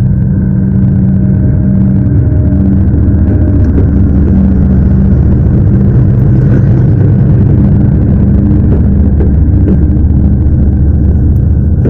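GE GEU-40 diesel-electric locomotive's engine running loud and steady as it pulls a container freight train away, a deep, even hum.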